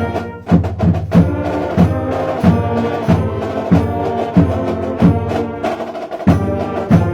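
High school marching band playing, with held brass chords over a steady drum beat of about one and a half hits a second.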